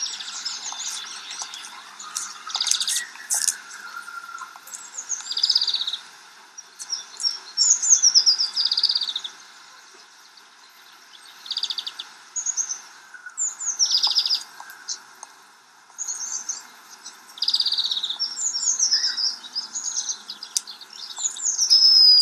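Songbirds singing, short phrases every second or two, many of them quick trills that fall in pitch, over a faint steady background hiss.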